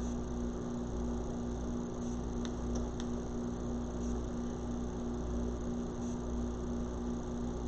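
Steady low background hum with a constant tone and faint hiss, broken by a few faint clicks about two and a half and three seconds in.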